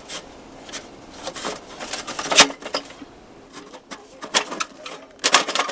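Scattered clicks and knocks of outdoor camping gear being handled and set up. The loudest knock comes about two and a half seconds in, and a quick run of knocks comes near the end.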